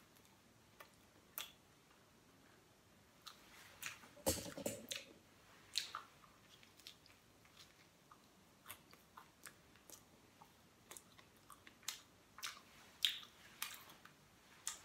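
A person biting into and chewing scrambled egg on bread: faint, scattered wet mouth clicks and smacks, with a louder cluster about four seconds in.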